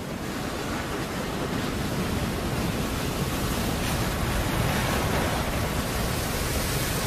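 Large ocean wave breaking over a shallow reef: a steady rush of surf noise that builds over the first second or so and then holds.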